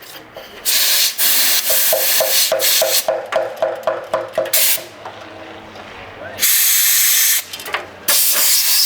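Compressed air blowing through disconnected hoses to clear them, in several hissing blasts: short pulsing bursts at first, then a longer blast and another near the end.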